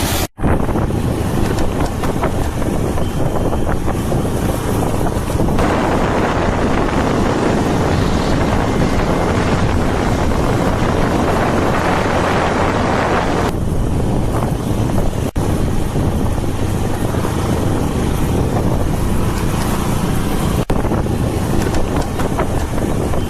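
Heavy wind buffeting a smartphone microphone: a steady rushing rumble that swells louder for several seconds in the middle. It drops out for an instant just after the start and again twice later.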